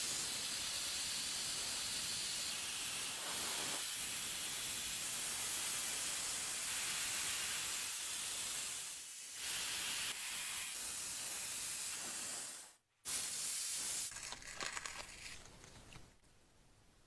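Steady hiss of a spraying jet. It dips briefly, resumes after a short break, then gives way to scattered crackling that fades out near the end.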